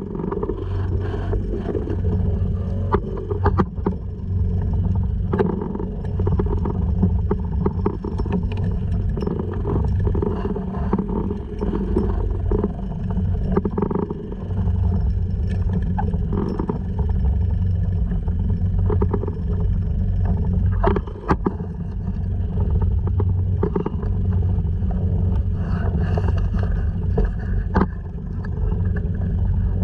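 Honda 2.3 hp single-cylinder four-stroke outboard running steadily, pushing a sea kayak along, with scattered sharp knocks and slaps from the water and the hull.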